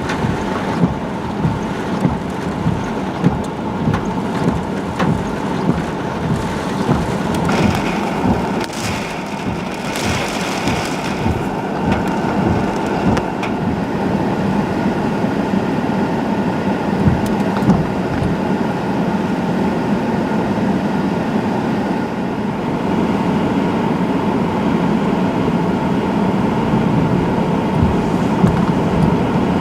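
Hurricane-force wind and heavy wind-driven rain roaring without a break, with frequent low gusts thumping on the microphone. A harsher hiss of rain swells for a few seconds about a third of the way through.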